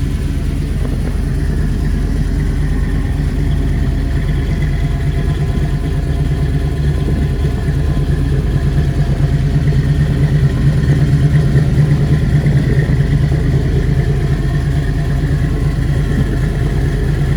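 Custom-built 455 cubic inch Pontiac V8 idling steadily through headers and a dual exhaust, a deep even rumble that grows a little louder around the middle.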